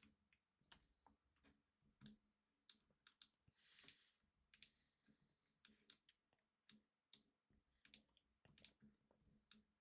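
Faint, irregular clicks of a computer mouse and keyboard, a few per second, with a brief soft hiss about four seconds in.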